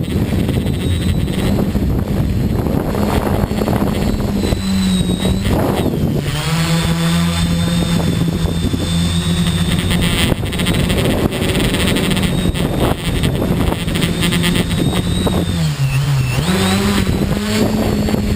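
Tricopter's three electric motors and propellers buzzing steadily with a thin high whine above, the pitch dipping and climbing back about six seconds in and again near the end as the throttle is worked.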